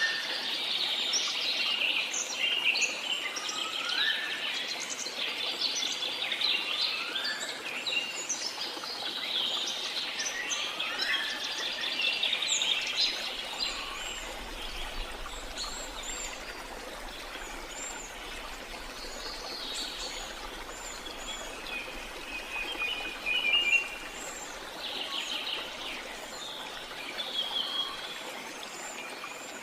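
Many birds chirping and calling over the steady rush of a waterfall, with a few short upward-sweeping calls; the bird calls are busiest in the first half and thin out later.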